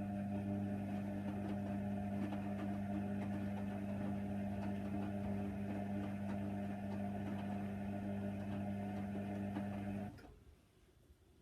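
Hoover Nextra washer dryer running with a steady electrical hum, which cuts off suddenly about ten seconds in.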